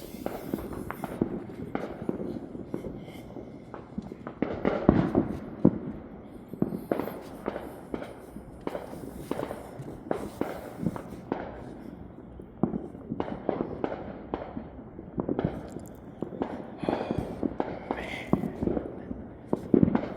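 Fireworks and firecrackers going off around a neighbourhood: a continual irregular crackle of pops and bangs, with a louder cluster of bangs about five seconds in.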